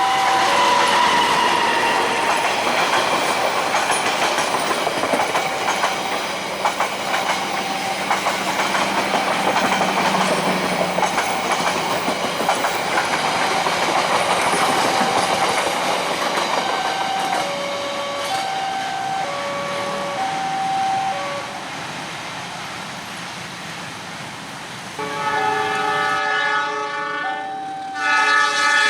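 A train passing over a level crossing, its wheels clattering over the rails. The crossing's warning signal beeps on and off in two alternating tones throughout. About 25 seconds in, and again near the end, the train sounds a multi-tone horn.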